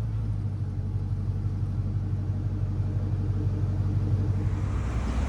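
GMC Sierra 5.3 V8 truck engine on headers running steadily with a deep rumble; about four and a half seconds in the note drops lower and gets a little louder.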